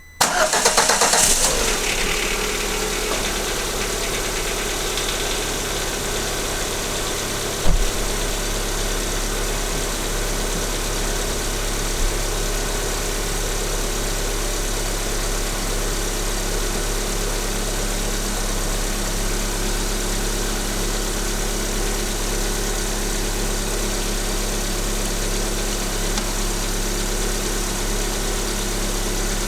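A Lada VAZ-21127 1.6-litre sixteen-valve four-cylinder engine starting, with a brief loud rise in revs just after the start, then idling steadily. A single sharp thump sounds about 8 seconds in.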